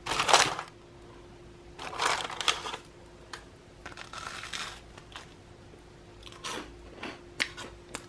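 Crisp air-fried garlic bread crunching in three main bursts, with lighter crackles after.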